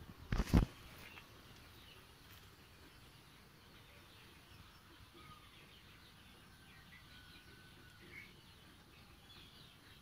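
A short scuffling thump about half a second in, then faint, scattered bird chirps and short whistles over low background noise.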